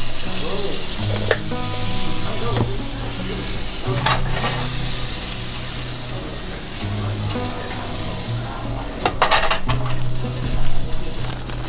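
Beef fajita strips sizzling in a frying pan, with a utensil scraping and stirring the pan about four seconds in and again about nine seconds in. Quiet background music plays underneath.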